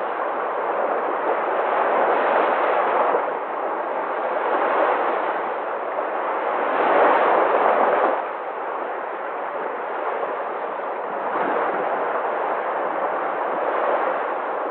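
Sea waves washing onto the shore: a continuous rushing surf that swells and eases every few seconds, loudest about seven seconds in.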